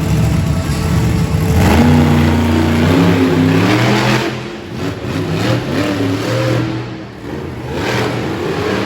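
Monster truck engine revving hard, its pitch climbing and dropping several times as the throttle is worked, with surges of noise between.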